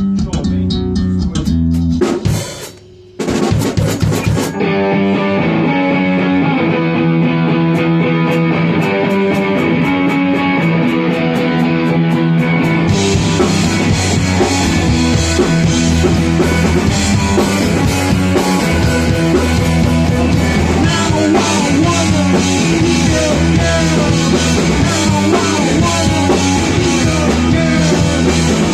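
Rock band rehearsing live, electric guitar and drum kit playing an instrumental riff. A few loud opening hits and a short break about three seconds in lead into a steady repeating riff, with cymbals coming in about halfway.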